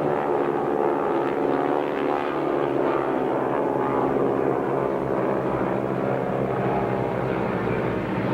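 Several North American Harvard / T-6 trainers flying in formation, their Pratt & Whitney R-1340 radial engines and propellers giving a steady, loud drone made of many overlapping engine tones.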